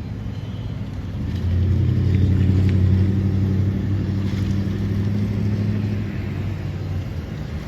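One long, low blast from a boat horn, a steady deep tone that swells about a second and a half in and eases off around six seconds in.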